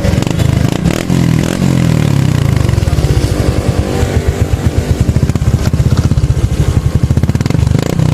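Honda RS125 Fi's single-cylinder four-stroke engine running loudly through a newly fitted Taikom aftermarket exhaust pipe, its revs rising and falling a few times.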